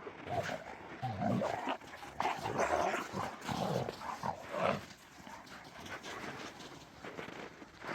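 Dogs making short, excited whines and yelps in irregular bursts, going quieter after about five seconds.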